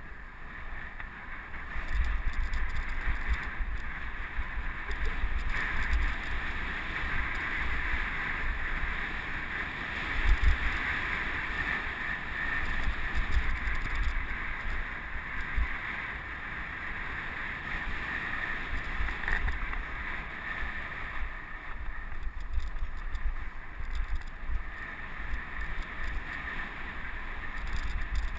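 Wind buffeting the microphone of a helmet-mounted camera on a moving mountain bike: a gusty low rumble over a steady hiss of riding noise.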